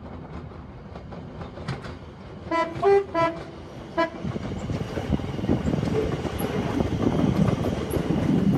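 Electric multiple-unit passenger train sounding its two-tone horn about two and a half seconds in, low-high-low, with one short toot a second later. Then the rumble and wheel noise of the train passing close by grows steadily louder.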